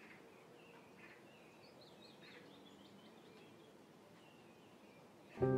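Faint birds chirping over a low outdoor background hiss. Near the end, piano music comes in suddenly and much louder.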